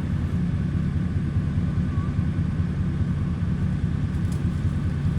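Tractor engine running at a steady speed, a continuous low rumble.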